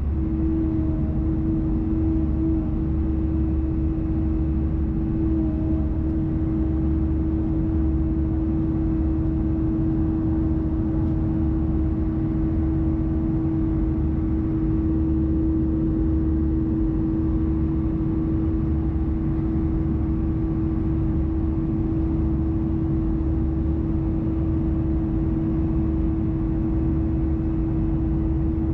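Airbus A320-214 cabin in the climb: the CFM56 engines' steady low drone with a steady howl from the left engine laid over it.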